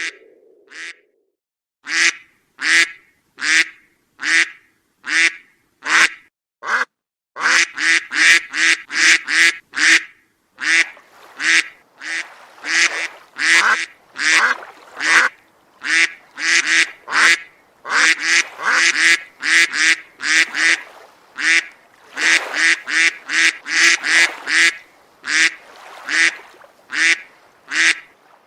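Ducks quacking: a long run of short, rapid quacks, several a second. There is a brief pause near the start, and the calls come thicker and overlap from about a quarter of the way in.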